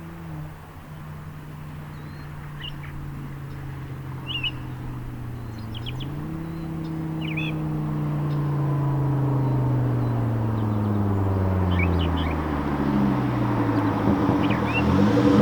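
Exhaust note of a Volvo V70 2.5T's turbocharged inline five-cylinder running through a catless downpipe and free-flowing muffler. The engine climbs in pitch about six seconds in, then falls slowly while getting louder, and rises again near the end. Birds chirp faintly in the background.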